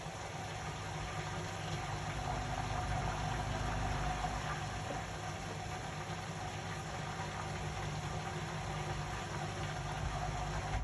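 Indesit Innex BWE 91496X washing machine running, a steady motor hum over a low rumble of the turning drum, growing a little louder over the first few seconds.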